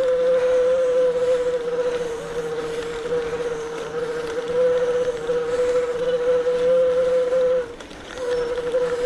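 Electric bike motor whining steadily under load on a steep climb, one high hum with fainter overtones above it. It cuts out briefly about eight seconds in, then picks up again.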